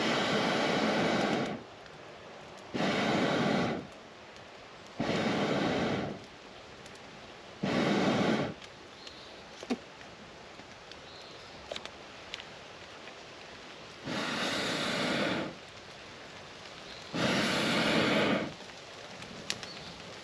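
A person blowing on a campfire to liven it, six long breaths of about a second each, with pauses between, over a steady hiss of rain. A few faint crackles or drips in between.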